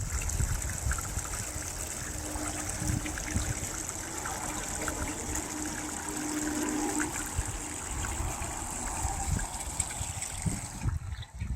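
Water trickling and running steadily, with a bright hiss that drops away near the end.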